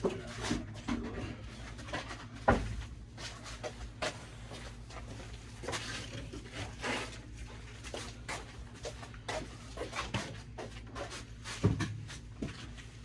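Scattered knocks, clicks and scraping of objects being handled, with a sharp knock about two and a half seconds in and another near the end, over a low steady hum.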